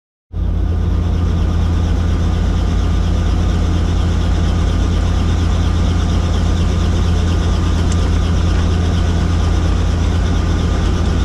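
Helicopter running, a loud steady drone of engine and rotor with a deep hum.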